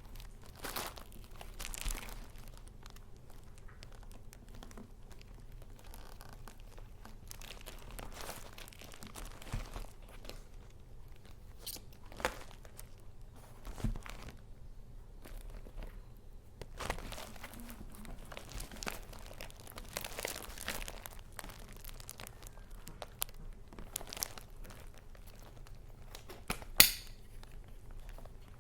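Paper and packaging being handled, rustling and crinkling in irregular bursts, with one sharp, louder crackle near the end.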